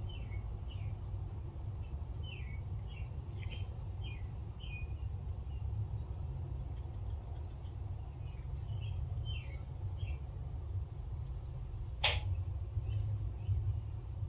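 Small birds chirping: short, high, falling calls repeated in loose runs, over a steady low rumble. One sharp click sounds about twelve seconds in.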